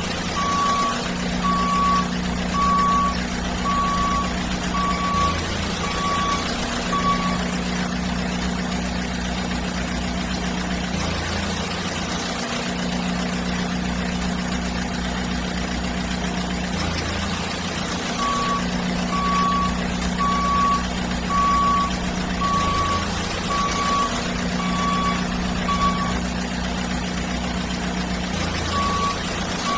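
JCB excavator's reversing alarm beeping steadily at about one beep a second over a continuous low engine-like hum. The beeping stops for about ten seconds from about seven seconds in, then resumes twice.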